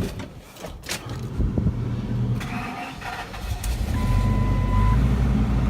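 The 2007 Ford F550's 6.8-litre V10 gas engine being started: a click and a few seconds of cranking, then it catches about four seconds in and settles into a steady idle. A short single electronic beep sounds as it catches.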